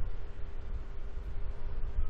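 Wind buffeting the microphone as a low, uneven rumble, with a faint steady whine of a jet engine.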